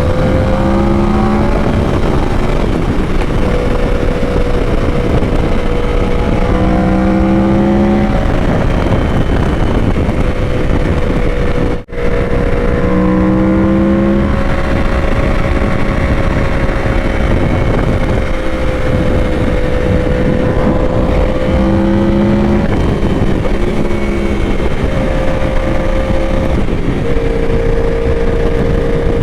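Yamaha R1 inline-four engine running at a fairly steady cruise, heard from the rider's position under heavy wind rush. The engine note rises and falls only slightly. The sound cuts out for an instant about twelve seconds in.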